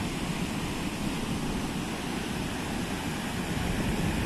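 Sea surf and strong wind blowing across the microphone, a steady rushing noise.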